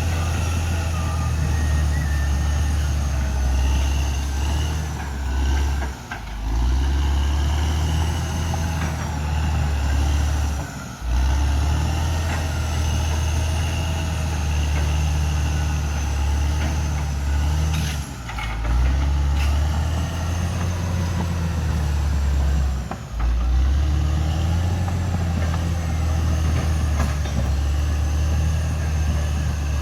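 Caterpillar D6R XL bulldozer's diesel engine running with a steady low drone. The drone drops off for a moment four times.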